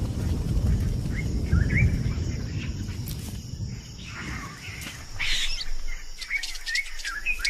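Low rumble of distant thunder dying away over the first few seconds, with birds giving short rising chirps throughout and a brief burst of noise about five seconds in.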